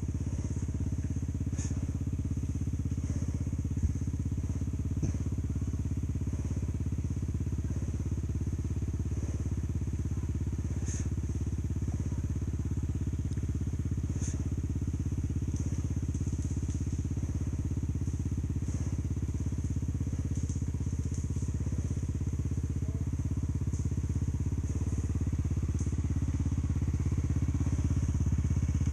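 Enduro dirt bike engine running steadily at low revs, with a few scattered clicks, getting a little louder near the end.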